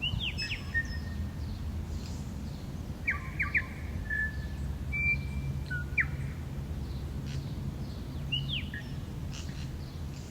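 Wild birds calling outdoors: short, sharp chirps, some ending in a brief whistled note, come every few seconds over a steady low background hum.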